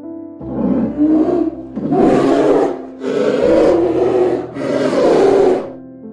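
A big cat giving four rough, rasping roars, each about a second long, in a steady series.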